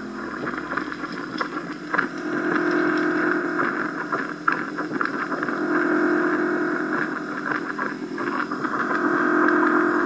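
Lightsaber hilt's Crystal Focus 6.1 soundboard playing the Predator sound font: a steady droning hum that swells and fades every few seconds as the blade is swung, with sharp hits about two and four and a half seconds in.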